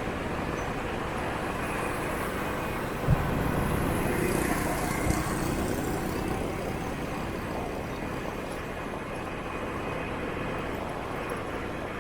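Steady city traffic heard from a riding motorbike: a wash of motorbike and car engines and tyre noise. It grows louder for a few seconds from about three seconds in, with a sharp knock at that point and a smaller one around five seconds.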